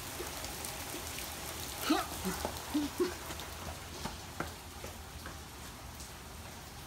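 Heavy rain falling steadily on pavement, an even hiss, with a few short squeaks about two to three seconds in.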